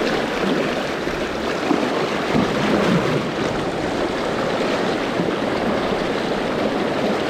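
River water rushing steadily over rocks: a fast, shallow mountain stream.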